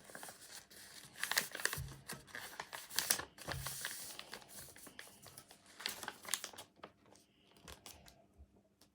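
A sheet of paper being folded and creased by hand into a paper airplane: irregular crinkling and rustling with sharp creasing strokes, dying down after about six and a half seconds.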